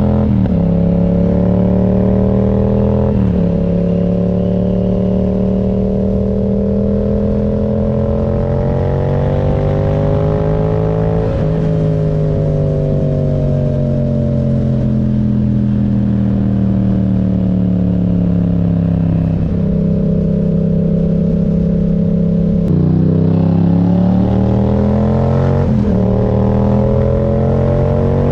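Yamaha MT-07's parallel-twin engine under way, accelerating with its pitch climbing and dropping sharply at each upshift, then a long, slow fall in pitch as the throttle is eased, before it pulls up through the gears again near the end.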